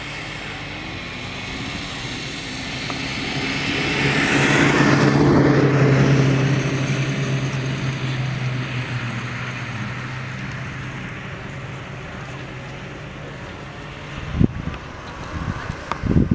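A motor vehicle's engine passes close by: a steady low hum swells to its loudest about five seconds in, with a hiss that sweeps down in pitch as it goes past, then slowly fades. A couple of short knocks come near the end.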